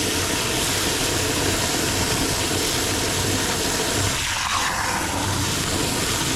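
Garden hose spraying water at full pressure into an HVAC evaporator drain pan to flush out built-up debris, a steady rushing hiss that eases off near the end.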